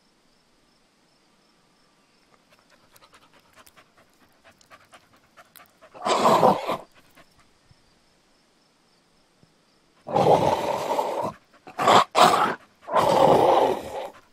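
A mixed-breed dog and an Akita scuffling in a fight: faint quick pattering taps, then one loud, harsh, breathy burst of dog noise about six seconds in and three more in quick succession near the end.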